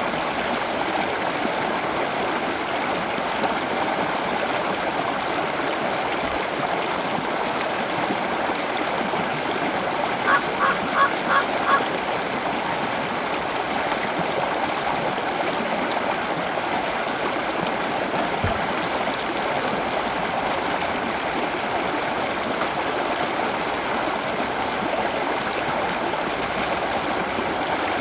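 Steady rush of running water, with a bird giving a quick series of five short honking calls about ten seconds in.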